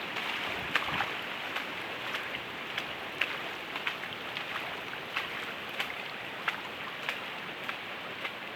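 Steady hiss of heavy rain and running floodwater, with scattered sharp ticks of raindrops striking close by.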